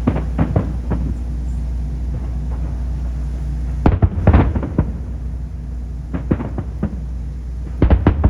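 Aerial fireworks shells bursting in clusters of sharp bangs, four volleys a couple of seconds apart, over a steady low rumble.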